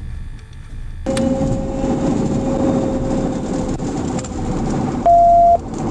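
Road and engine noise inside a police pickup truck in a high-speed pursuit. About a second in a click comes, and the noise grows louder, with a steady whine that slowly falls in pitch. Near the end a short, loud single-tone beep sounds for about half a second.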